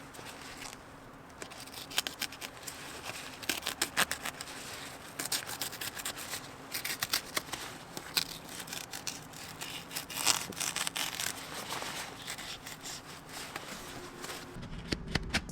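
Razor blade cutting and sawing through airbag fabric, in irregular scratchy scraping and snipping strokes. Music starts near the end.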